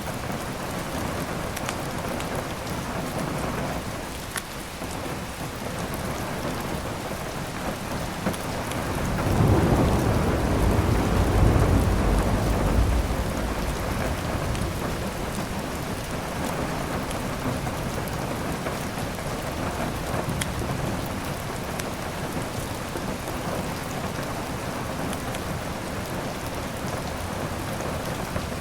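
Steady heavy rain, with a low roll of thunder swelling up about a third of the way in and fading after a few seconds. A few sharp snaps from a wood fire sound over the rain.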